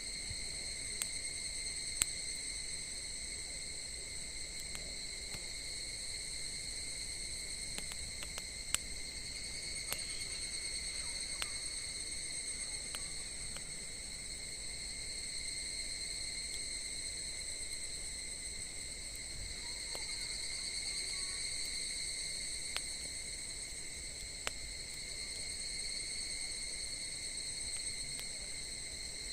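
A steady high-pitched chorus of crickets trilling without pause, with a few sharp isolated clicks now and then.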